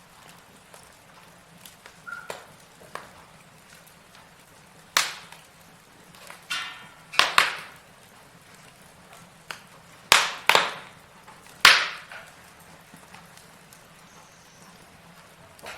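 Logs burning in a fireplace, crackling with scattered sharp pops; the loudest pops come in a cluster from about five to twelve seconds in.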